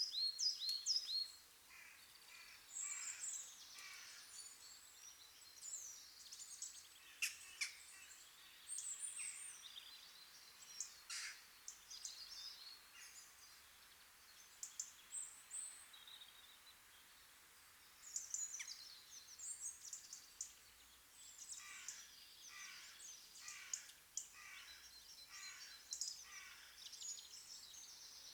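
Small birds chirping and calling, with runs of repeated high notes at about two a second, over a faint steady hiss.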